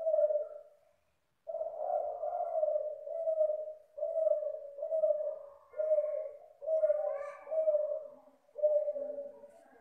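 Derkuku (spotted dove) cooing: one short coo, a brief pause, then a long run of repeated low coo notes at about one a second.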